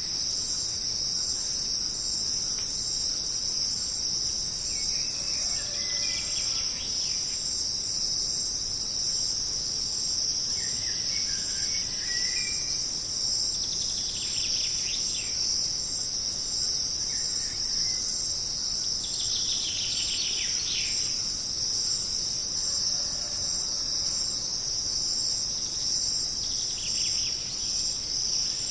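Jungle insects, crickets among them, making a steady, unbroken high-pitched drone. A few short bird calls break in every several seconds.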